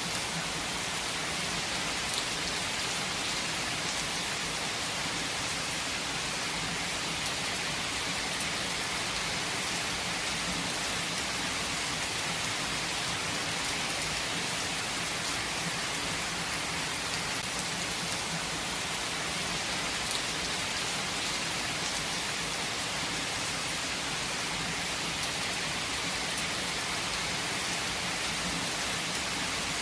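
Steady rainfall in a forest, an even hiss of rain with scattered individual drops pattering on leaves and surfaces.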